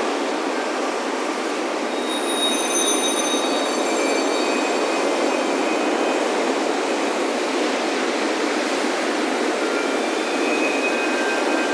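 Steady wash of ocean surf breaking on the beach. Wind chimes ring a few high, clear tones about two seconds in, and again near the end.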